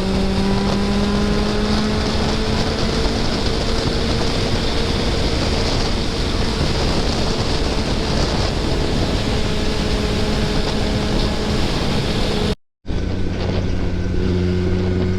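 Kawasaki ZX-10R's inline-four engine running steadily while riding, its pitch rising slowly over the first few seconds, under heavy wind rush on the microphone. About two-thirds of the way through the sound drops out for a split second, then the engine carries on at a slightly different steady pitch.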